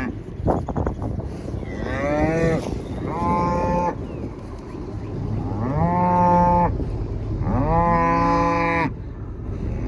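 Texas Longhorn cows mooing: four long calls, each about a second, the first sweeping in pitch and the later ones held steady.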